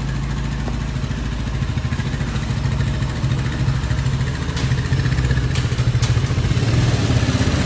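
Big Hummer 250cc ATV's four-stroke, air-cooled carburetted engine idling steadily, with a few light clicks around the middle.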